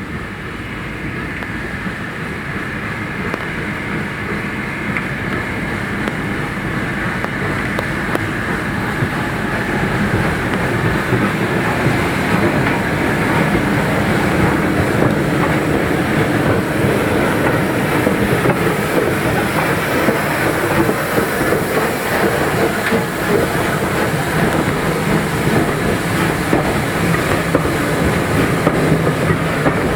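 Train running on the rails, its wheels clattering over the rail joints, growing louder over the first half and then staying loud as it passes close by.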